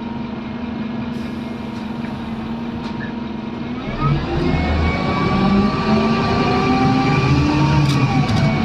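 Scania N230UD double-decker bus engine idling steadily, then about four seconds in it revs up as the bus pulls away, the engine note rising as it accelerates.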